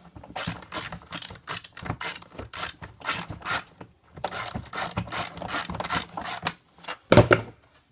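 A ratcheting screwdriver clicking in quick runs as a screw is backed out. There is a short pause in the middle and a louder knock near the end.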